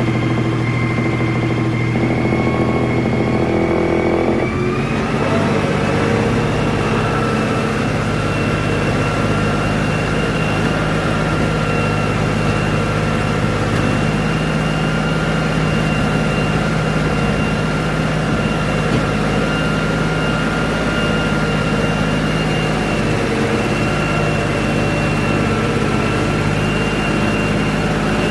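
Farm tractor's diesel engine running steadily under load while it pulls a rotary tiller. About four to five seconds in, the engine note and a higher whine step up in pitch and then hold steady.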